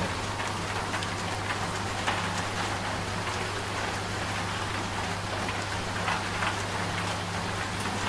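Steady rain falling, with many scattered drop ticks, over the low, continuous hum of a running washing machine.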